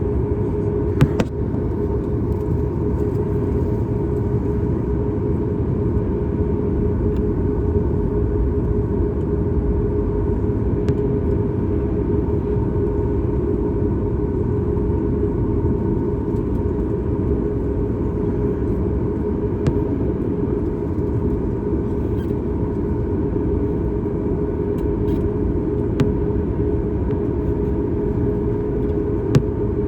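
Steady cabin drone of a Boeing 737 MAX 8, its CFM LEAP-1B jet engines and the airflow making a constant low rumble with a steady hum on top, and a few faint clicks.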